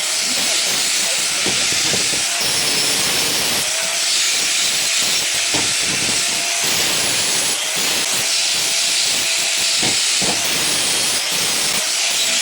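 TIG welding arc on stainless steel, hissing steadily with scattered faint crackles.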